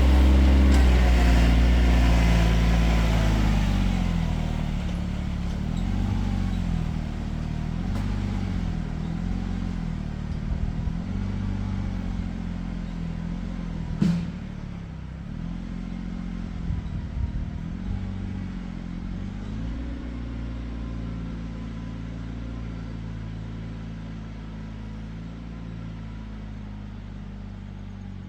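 Kioti tractor's diesel engine running, its note rising and falling again and again as it works, with a sharp knock about halfway through and some rattling after it. The engine gets gradually quieter over the second half.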